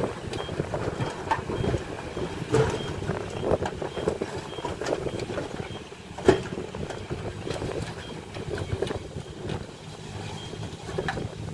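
Heavy earthmoving machinery running steadily, with irregular clanks and knocks and one sharp loud knock about six seconds in.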